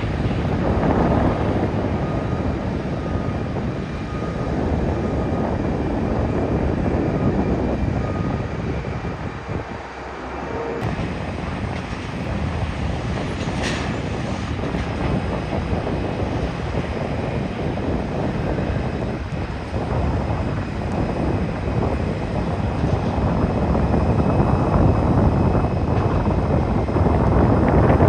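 Jet airliners arriving, heard as a steady engine noise with wind on the microphone. First a British Airways Boeing 777-200ER landing, then, after a cut about 11 s in, a British Airways Airbus A321neo on approach that grows louder near the end.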